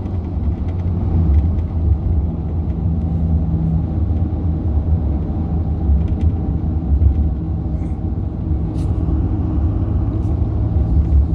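Steady low drone of a truck's engine and tyres while driving at highway speed.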